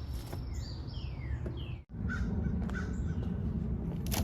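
Bird calls: a few short, falling whistled notes over a steady low background rumble, with a brief dropout just under two seconds in and a few clicks near the end.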